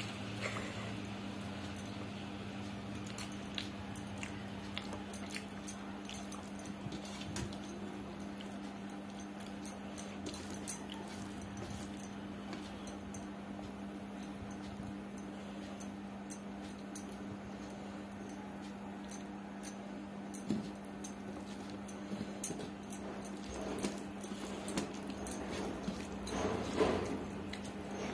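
Close-up eating sounds: wet chewing and sharp lip-smacking clicks from mouthfuls of khichdi eaten by hand, scattered irregularly over a steady low hum, busier a little before the end.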